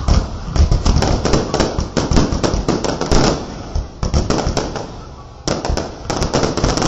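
Fireworks going off: a rapid, dense run of bangs and crackling reports from aerial bursts, thinning out briefly about two-thirds of the way through before picking up again.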